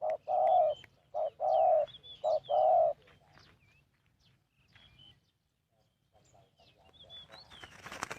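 Spotted dove cooing: three short-then-long coo phrases over the first three seconds. Faint high chirps from small birds follow, and a rustling noise builds near the end.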